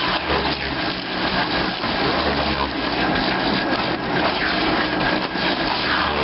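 Steam-engine-driven veneer mill running: a loud, steady clatter and rush of machinery, with a low rumble that swells and fades every couple of seconds.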